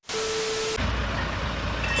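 A heavy vehicle's engine running steadily and low, after a short single-pitch beep over a burst of hiss in the first second.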